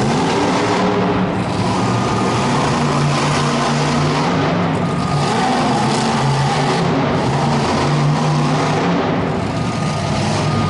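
Monster truck engine running hard at high revs as the truck spins donuts, its pitch wavering up and down, over a steady wash of arena noise.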